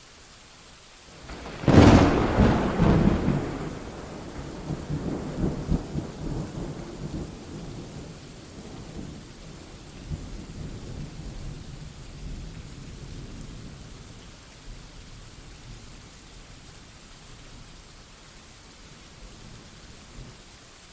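Thunder over steady rain: a sharp thunderclap about two seconds in, followed by rolling rumbles that slowly fade away over the next fifteen seconds or so.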